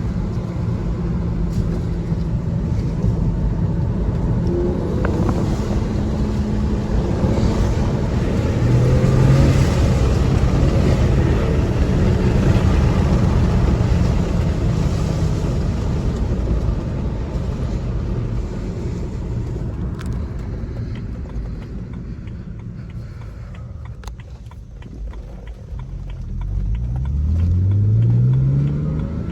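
The 2007 BMW 335xi's twin-turbo inline-six, breathing through an Injen cold air intake, pulls steadily under way. It eases off for a few seconds after the middle, then rises in pitch as the car accelerates near the end.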